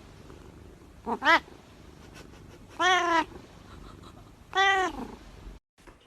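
Domestic cat meowing: two short meows about a second in, then two longer meows, the last one falling in pitch at its end. The sound cuts off suddenly near the end.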